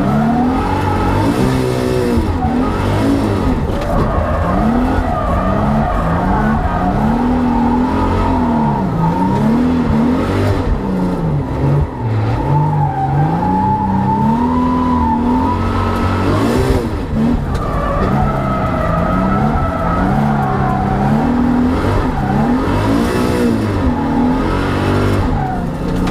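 The 1,390 bhp Nissan GT-R drift car's 4-litre engine revs up and down over and over, each rise and fall lasting a second or two. Its tyres squeal as the car slides sideways in a drift.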